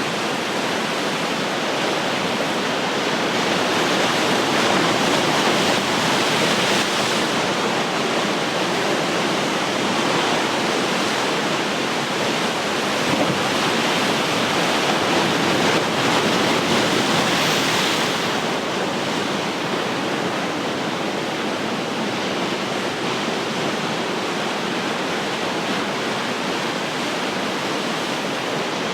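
Ocean surf: a steady wash of breaking waves with no pause, swelling a little louder and hissier about five seconds in and again past the middle.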